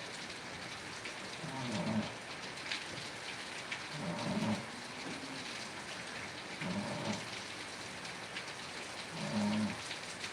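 Steady rain falling on a surface, with fine drop ticks throughout. A low, partly pitched sound swells up four times, roughly every two and a half seconds.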